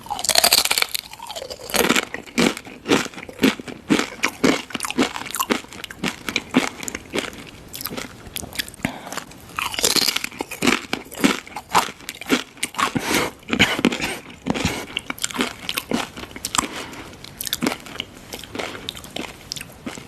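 Close-miked mukbang chewing: a run of sharp, irregular crunches and bites of crunchy food, with louder clusters at the start and about halfway through.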